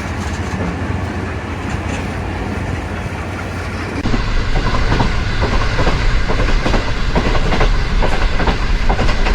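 Passenger train running on the track, its wheels clicking over the rail joints; about four seconds in it gets louder and a quick run of clicks begins.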